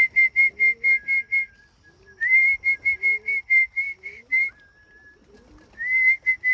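Whistled feed call to bring pigeons down to the loft: three runs of rapid pulsed whistle notes, about seven a second, each starting with a short rising slide, with a softer, lower steady whistle between the runs. Pigeons coo softly underneath.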